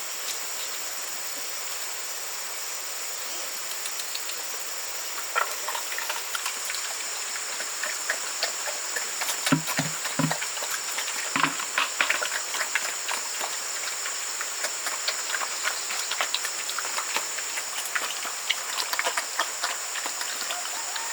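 A steady, high insect chorus, like crickets or cicadas, with scattered rustling and crackling from about five seconds in, like someone moving through brush or handling dry material, and a few soft thumps near the middle.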